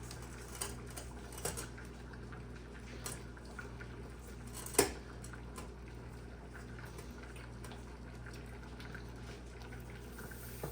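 Faint steady stovetop cooking noise over a low hum, broken by a few light clicks and one sharp knock about five seconds in.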